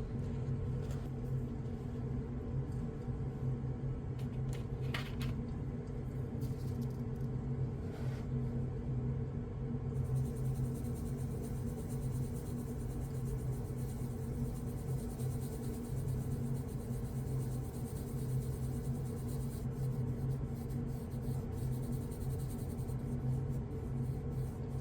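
Coloured pencils scratching on colouring-book paper with a few light taps, over a steady low hum that is the loudest thing throughout.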